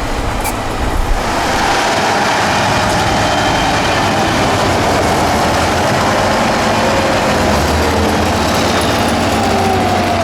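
A 6x6 trial truck's engine working under load on an off-road course. The noise is steady and swells about a second and a half in, and the engine pitch slides slowly downward near the end.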